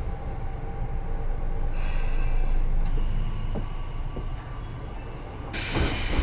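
Tobu 9000-series electric train running: a steady low rumble of wheels on rail, with a high whine that fades and briefly returns about two seconds in. A sudden loud hiss breaks in near the end.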